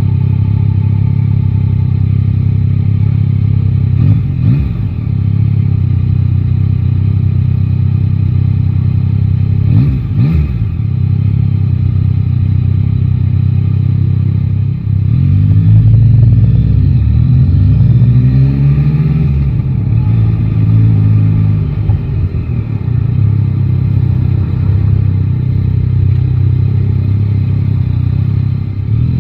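Yamaha Tracer 9 GT's 890 cc inline-three engine running steadily at low revs, with two brief dips in revs about four and ten seconds in. From about fifteen seconds the revs rise and fall several times as the bike pulls away, then it settles back to a steady run.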